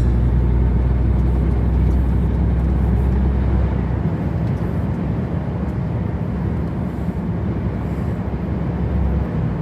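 Truck engine running under way, with tyre and road noise: a steady low drone whose deepest part drops away about four seconds in.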